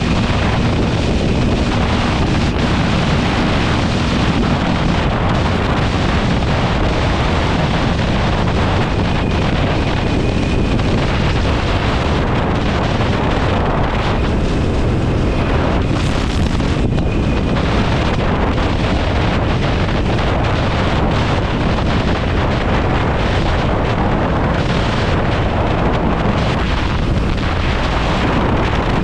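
Wind rushing over the microphone of a motorcycle moving at road speed, steady and loud, with the motorcycle's engine running underneath.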